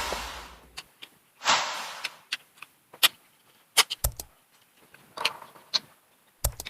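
Close-up eating sounds of shellfish: sharp clicks and cracks of crab shell, a short crunchy rustle about a second and a half in, and two low thumps.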